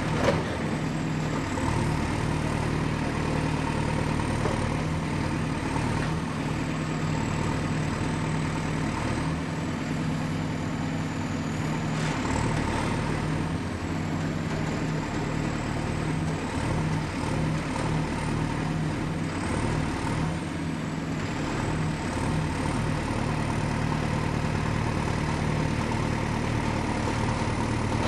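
Excavator's diesel engine running steadily, with a faint high whine that drifts slowly up and down in pitch.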